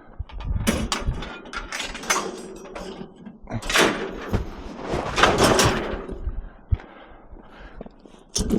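Scrap metal being handled and loaded: a series of knocks and clatters, with two longer scraping rattles about halfway through.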